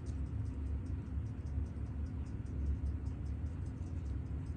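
Rapid, light clicking, several clicks a second and fairly even, over a low steady hum.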